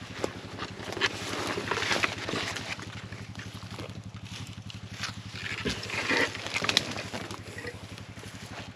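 ATV engine idling steadily, with irregular rustling and scuffling over it.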